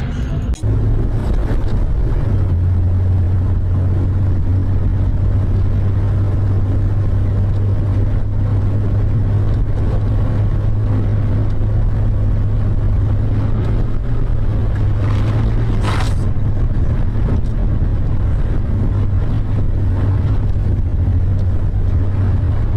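Steady low rumble of a car driving, engine and road noise as a dashcam picks it up, with one short sharp sound about 16 seconds in.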